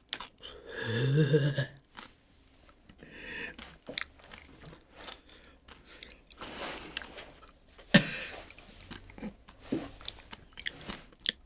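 Someone crunching and chewing a chip close to the microphone, with many small crackling crunches. About a second in there is a short wordless hum or groan, and there is one sharp crack near the end.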